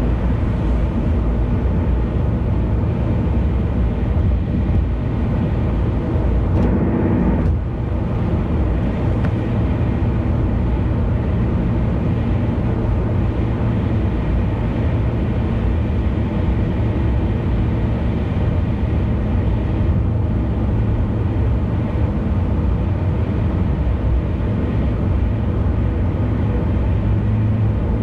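Car driving at speed on an expressway: a steady low engine drone mixed with tyre and road noise, with a brief change in the rumble about seven seconds in.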